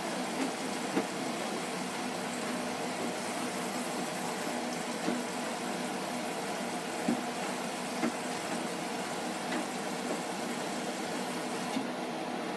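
Hotpoint HE8L493 washing machine running on its Fastwash Eco cycle: a steady hum and running noise with a few faint knocks scattered through.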